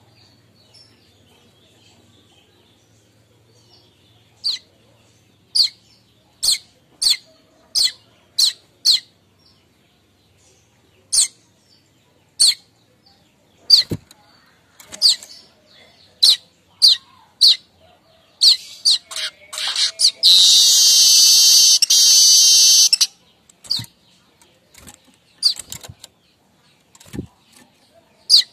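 Streaked weaver (manyar kembang) calling: a series of short sharp chirps, then, about twenty seconds in, a loud buzzy rapid chatter (the kemrecek song) lasting nearly three seconds, then more scattered chirps.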